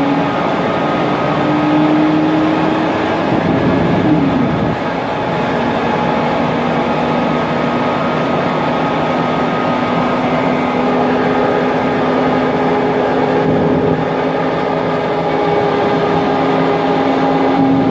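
Inside a Mercedes-Benz Conecto NGT city bus while it drives: the steady noise of its CNG engine and cooling fan, with the whine of its Voith DIWA automatic transmission. The whine climbs slowly and then drops sharply about four seconds in, then holds steady.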